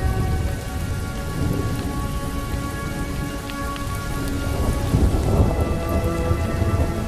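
Thunderstorm: steady rain with a low roll of thunder swelling about five seconds in, over faint sustained notes of slowed, reverb-heavy music.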